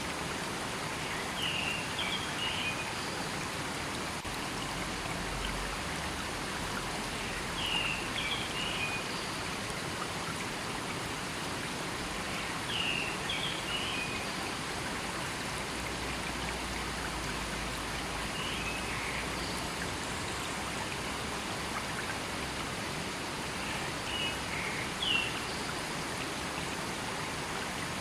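A river flowing steadily in a forest. A bird's short high phrase repeats about every five seconds over the rush of the water.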